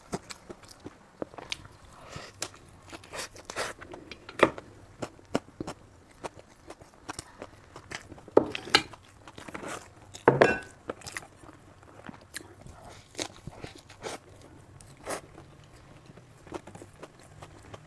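Close-up eating sounds: irregular crunching bites and chewing, with louder crunches about four, eight and ten seconds in.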